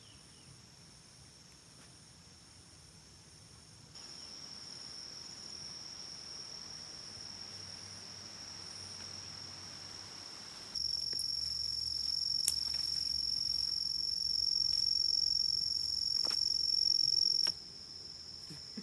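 Insects calling: a steady, high-pitched trill begins about four seconds in. It grows much louder about eleven seconds in and cuts off sharply near the end. A fainter, higher pulsing chirp repeats through the first half.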